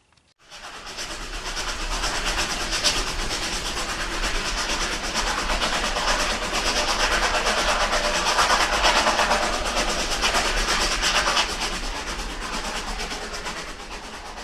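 Model train running along the layout track, its wheels clicking rapidly over the rail joints. It starts suddenly, grows louder to a peak about nine seconds in, then slowly fades away.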